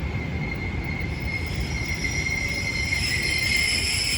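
Railway test train coaches rolling past at a station platform: steady wheel rumble with a high, steady wheel squeal, joined by more high-pitched squealing that grows louder in the last second or so.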